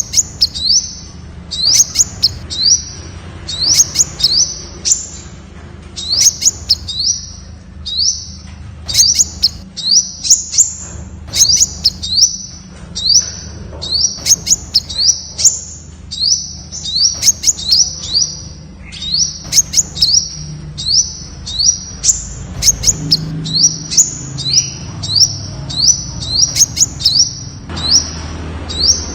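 Temminck's sunbird calling: short, high, upward-sweeping notes repeated about twice a second, mixed with sharp ticking notes.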